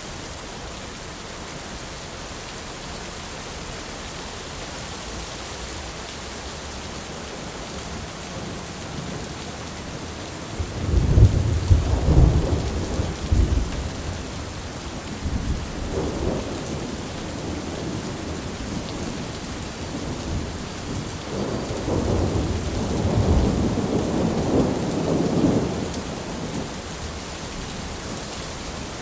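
Steady rain with thunder: a loud peal of thunder about a third of the way in, a smaller rumble shortly after, and a longer rumble running for several seconds past the middle, all over the even hiss of the rain.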